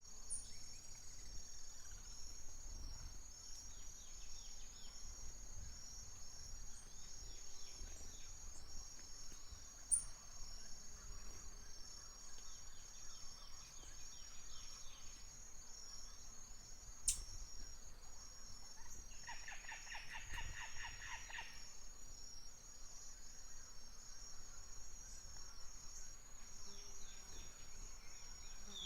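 Forest ambience: a steady high-pitched insect trill runs throughout, with scattered bird chirps and a rapid run of bird notes about two-thirds of the way through. Underneath there is a low wind rumble and two brief sharp ticks.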